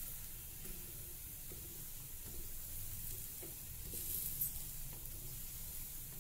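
Gram-flour (besan) chilla batter sizzling steadily on a hot tawa, with a short louder burst of sizzle about four seconds in.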